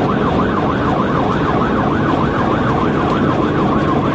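Police siren on yelp, sweeping up and down about four times a second, over steady road and engine noise from a cruiser running at highway speed.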